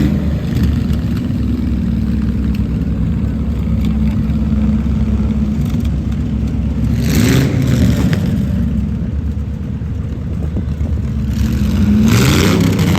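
Farm tractor engines running steadily as tractors drive by, with an engine rising in pitch about seven seconds in and again about twelve seconds in.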